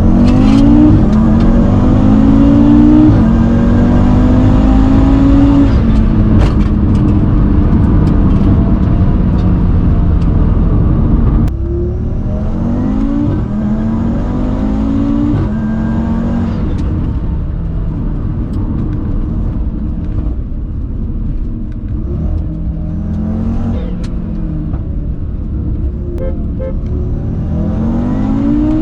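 Tuned Audi RS3's turbocharged five-cylinder engine accelerating hard, its pitch climbing through each gear and dropping back at each quick upshift. About eleven seconds in the sound cuts to a quieter run that climbs through the gears again.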